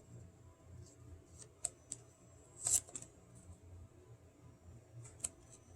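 Scissors snipping paper: a few scattered sharp snips with paper rustling, the loudest a little under halfway through.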